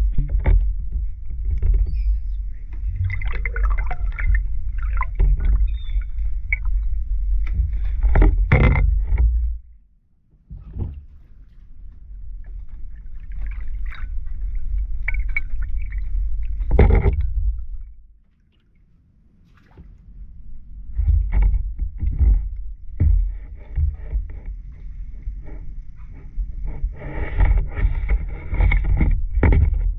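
Seagulls calling at intervals over a heavy low rumble of wind buffeting the microphone, with scattered knocks. The rumble drops away briefly twice.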